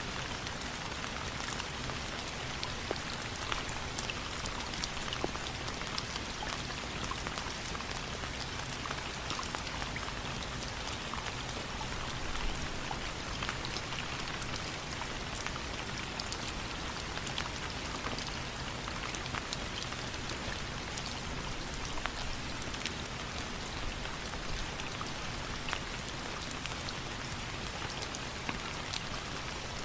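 Steady rain falling, an even hiss with many scattered sharp drop clicks.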